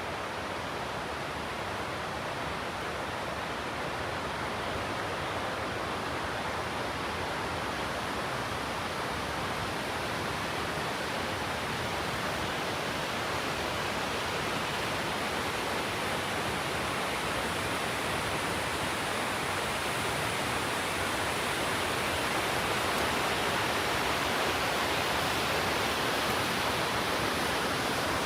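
Steady rush of running water, growing a little louder about two-thirds of the way through.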